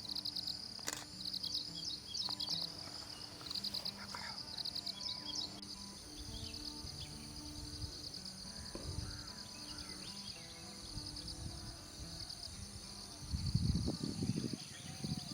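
Outdoor nature ambience: a high, rapid pulsing chirp of insects for the first few seconds that settles into a steady high buzz, under soft background music with held notes. A low rumble rises briefly near the end.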